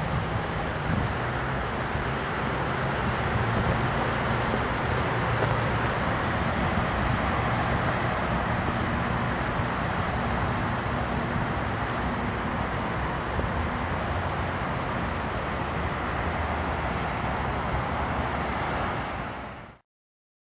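Steady rumble of a Canadian Pacific freight train's cars rolling along the track. It cuts off suddenly near the end.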